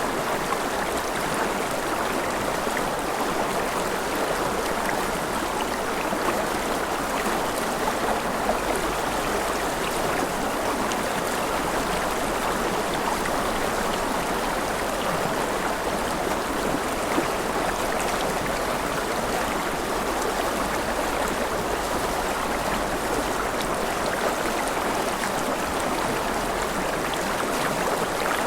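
Mountain river with rapids flowing: a steady, even rush of water.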